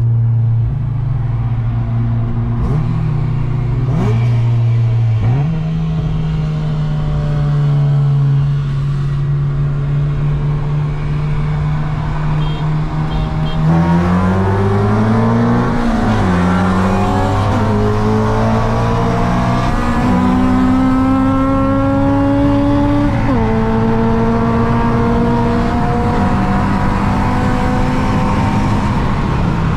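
2012 Honda Civic Si's full-bolt-on K24Z7 2.4-litre four-cylinder heard from inside the cabin. It runs steadily at first, then goes to full throttle about fourteen seconds in, revving up through the gears, and its pitch drops sharply at each upshift.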